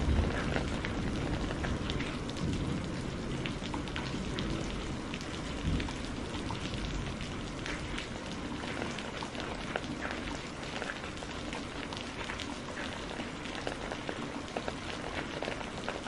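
Steady rain mixed with a fireplace crackling, sharp pops scattered throughout. A low rumble fades away over the first several seconds.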